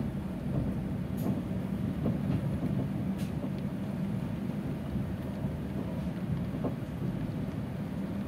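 Steady low rumble of a moving passenger train coach heard from inside the coach, with a couple of faint clicks.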